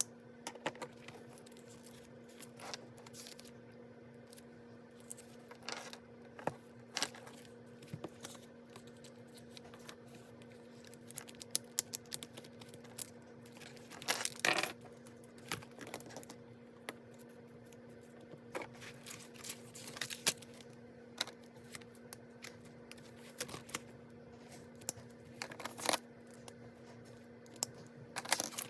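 Paper and stationery being handled at a desk for planner journaling: scattered rustling, crinkling and tearing with small sharp clicks at irregular intervals, a busier cluster about halfway through. A steady low hum runs underneath.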